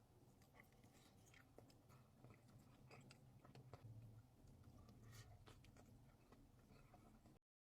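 Faint, close-up chewing and crunching: many small crackles and mouth clicks over a low steady hum. It cuts off abruptly near the end.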